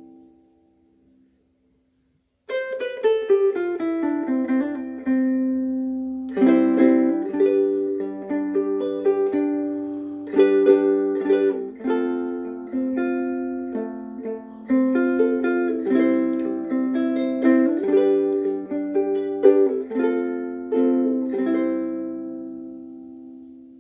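Soprano ukulele strung with Aquila Reds low-G strings being played. A tune of single notes and chords starts about two and a half seconds in, with long ringing sustain, and dies away near the end.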